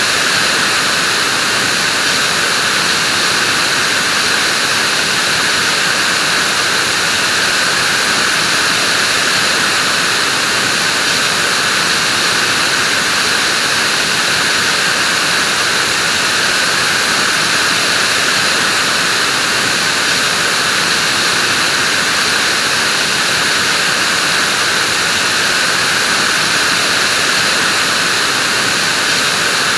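Vacuum cleaner running steadily: a constant airy motor hiss and whoosh with no change in pitch or level.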